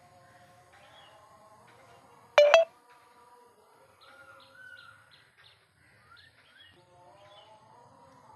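Birds chirping softly, with one short, loud call about two and a half seconds in.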